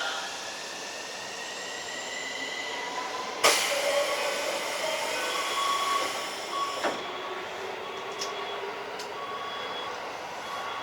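Keikyu 1500 series field-chopper electric train running, heard from inside the car: a steady rumble with a faint motor whine. There is one sharp clack about three and a half seconds in and lighter clicks later.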